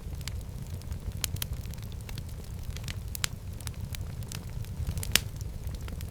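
Wood fire burning in a fireplace: a steady low rumble of the flames with irregular sharp crackles and pops, one louder pop near the end.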